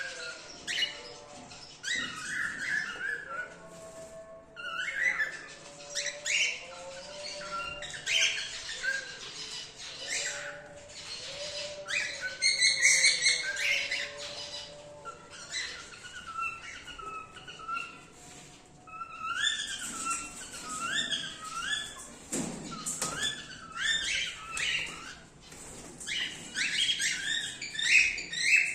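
A flock of cockatiels calling and chirping, many short rising calls overlapping one after another.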